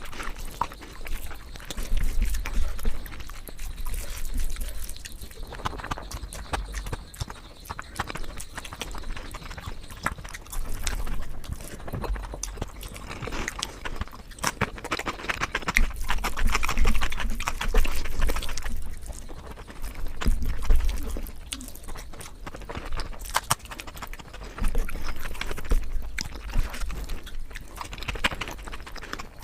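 Close-miked chewing and lip smacking of food: a dense run of irregular clicks that grows louder in stretches.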